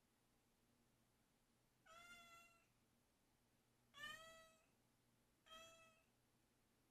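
Domestic cat meowing three times, each a short call under a second long, about two seconds apart, begging for a snack at its empty food bowl.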